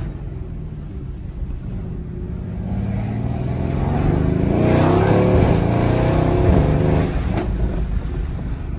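Twin-turbocharged 4.0-litre V8 of a 2020 Mercedes-AMG GLC63 S, tuned with catless downpipes, in Sport Plus mode, heard from inside the cabin. It runs quietly at first, then accelerates hard with the engine note climbing for several seconds. It drops off suddenly about seven seconds in, with a brief sharp sound just after.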